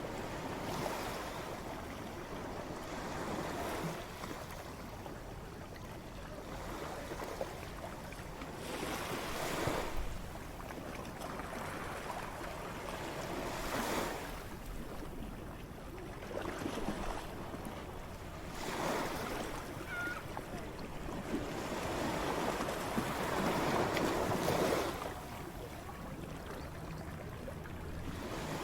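Ocean waves crashing on a shore. The surf swells and washes back every few seconds, with the biggest surge near the end.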